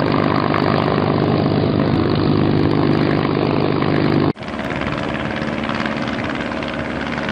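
A propeller and motor running steadily with a buzzing hum, in two clips joined by an abrupt cut about four seconds in.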